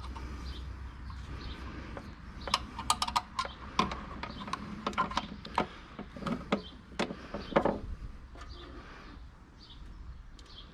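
Metal clicks and clinks of hardware being handled while the electric actuator is fitted to its mounting bracket, with a burst of sharp clicks through the middle and a steady low hum underneath.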